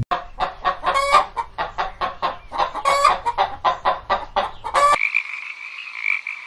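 Chickens clucking rapidly, about four or five calls a second, with a few louder squawks. About five seconds in it cuts abruptly to a steady, pulsing chorus of frogs.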